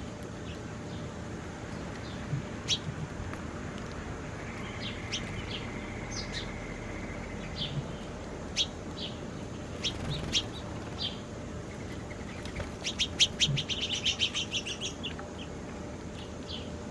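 Small birds chirping: scattered short, high chirps, then a rapid trill of about a dozen notes around thirteen seconds in, over a steady background hum.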